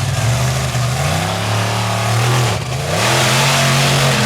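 Monster truck engine revving hard and held at high revs. The revs drop briefly about two and a half seconds in, then climb back up and hold.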